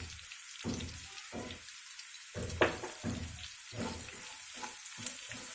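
Peeled garlic cloves, dried red chillies and tempering spices sizzling in hot oil in a kadai, with a steady hiss. A metal spatula scrapes and stirs them through the pan in repeated short strokes.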